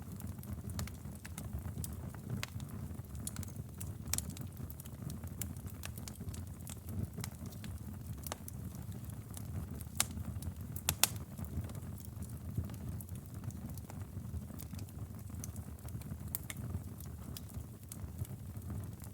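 Wood fire burning in a fireplace: a steady low rumble of flames with scattered crackles and sharp pops, the loudest pops about four seconds in and around ten to eleven seconds in.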